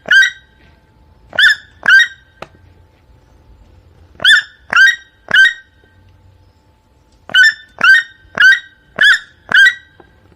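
Toucan calling: short, sharp honking yelps, each with a quick upward hook, given about twice a second in groups with pauses between, ending in a run of five.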